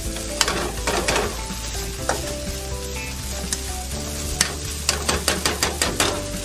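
Vegetable fried rice sizzling in a hot wok while a spatula turns it, with sharp scrapes of the spatula against the pan, a quick run of them near the end. The rice is being fried dry to drive off its last moisture.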